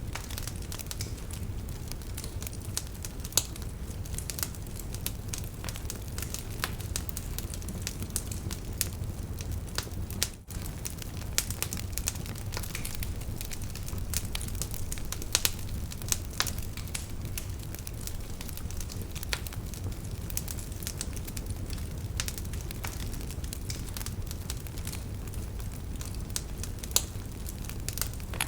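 Wood fire burning in a fireplace, crackling steadily with frequent sharp pops and snaps over a low rumble of the flames. The sound drops out for an instant about ten seconds in.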